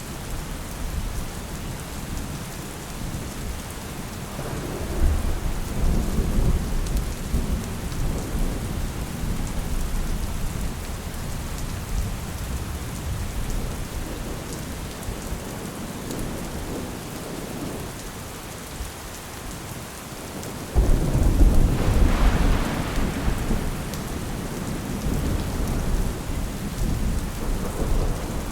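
Steady rain with rolls of thunder: a low rumble swells about five seconds in, and a louder thunderclap starts abruptly about 21 seconds in and rumbles away over the next few seconds.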